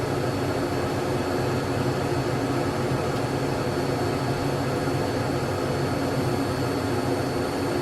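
Steady drone of a jet airliner in flight, heard from inside the cabin: an even rushing noise with a low hum and a faint high whine, unchanging throughout.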